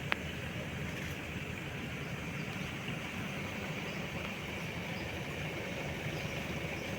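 A motor running steadily over rushing water, with one sharp click just after the start.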